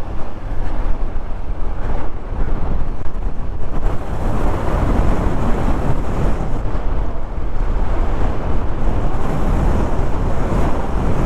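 Wind buffeting the microphone of a moving motorcycle, a steady loud rush with road and engine noise underneath.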